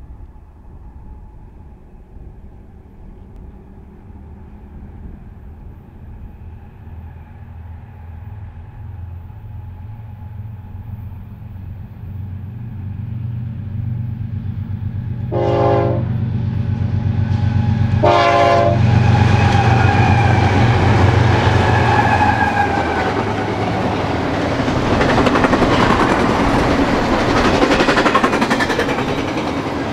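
Approaching diesel freight train: the locomotives' engines rumble louder as it nears, two short horn blasts sound about three seconds apart just past halfway, then the train passes close with double-stack container cars rolling by, wheels clattering on the rails.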